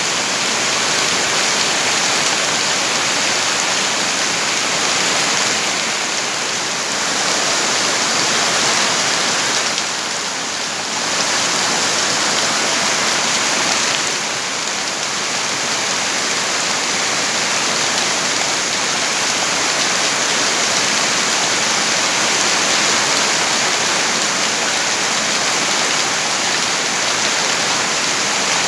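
Steady rain falling, a loud, dense and even hiss of drops that eases briefly three times.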